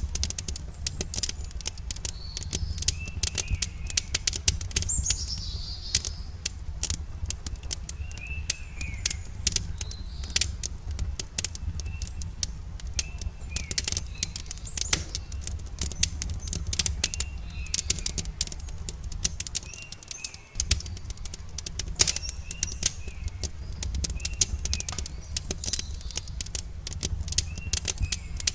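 Wood campfire crackling with many sharp snaps over a steady low rumble, while a bird repeats a short chirp every few seconds.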